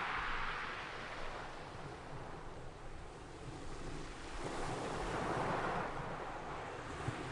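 Ocean surf: waves breaking and washing in, swelling near the start, easing off, then building again with the next wave about two-thirds of the way through. Wind rumbles on the microphone underneath.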